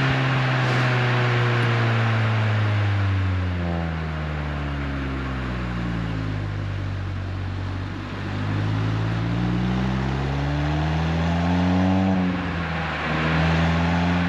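Renault Twingo RS Gordini's 1.6-litre four-cylinder engine running through an Inoxcar 80 mm stainless steel aftermarket exhaust during relaxed driving. The revs fall steadily for several seconds as the car slows, then rise as it accelerates, with a brief dip in revs near the end before they climb again.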